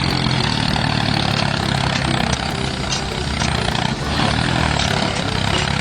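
Small engine of a DIY mini tractor running steadily.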